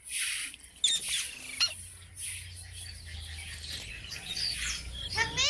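Pet green parrot making short raspy, hissing calls and a couple of sharp clicks, then a rising squawk near the end.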